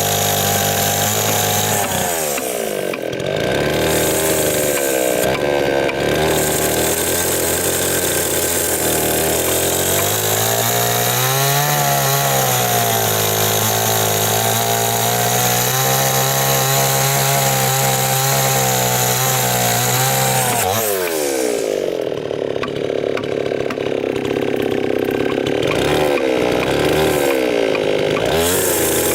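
Chainsaw cutting wood, its engine pitch sagging under load and recovering several times, then climbing sharply as it revs up near the end.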